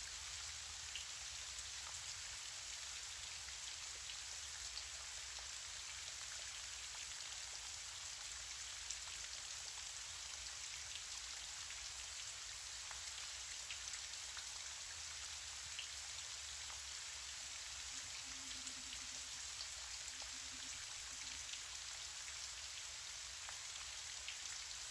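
Gentle rain falling steadily: an even hiss dotted with faint scattered drop ticks.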